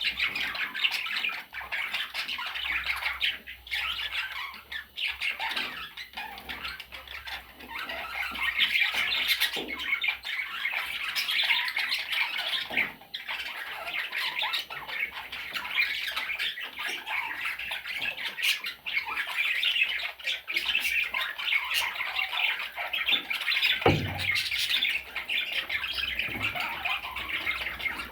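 Pet budgerigars chattering without a break, a dense mix of warbles and sharp calls. A single low thump sounds near the end.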